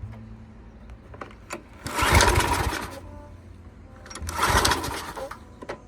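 Craftsman pressure washer's Briggs & Stratton 675 series engine being pull-started twice, each pull cranking it over for about a second without it catching: the long-stored engine won't start.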